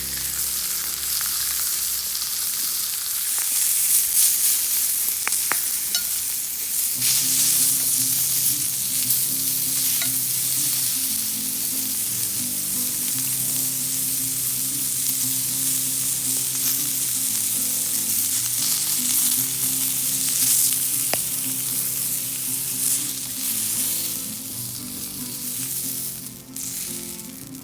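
Food frying on a hot thick iron griddle over a fire, a steady sizzle with a few small ticks and pops. Quiet background music runs underneath.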